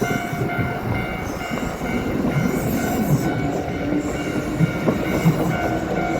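A train running over a Japanese level crossing, its wheels rumbling and knocking over the rail joints. Behind it the crossing's electronic warning bell rings in a repeating tone.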